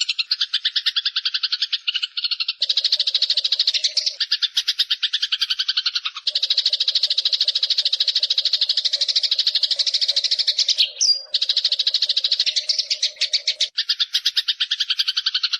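Rapid rattling animal call: long runs of fast, evenly repeated clicks lasting a few seconds each, with brief breaks between them. A short sliding whistle comes in about eleven seconds in.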